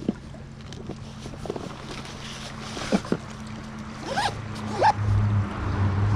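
Fishing tackle being worked during a cast and retrieve: scattered clicks and several short zipping swishes of line and reel, over a low steady hum that grows louder near the end.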